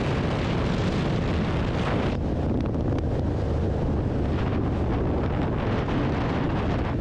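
Suzuki Boulevard M109R's 1783 cc V-twin running steadily on the move, with wind rushing over the microphone. The wind hiss eases about two seconds in.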